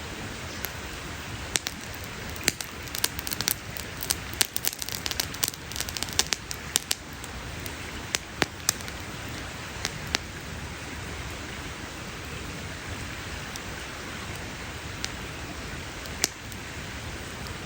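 Wood campfire crackling: sharp pops and snaps come thick and fast for a few seconds after the start, then only now and then, over a steady hiss of the burning fire.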